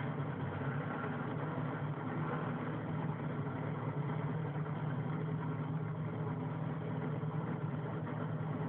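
A field of NASCAR V8 race engines idling together, just fired up: a steady, deep, even hum with no revving.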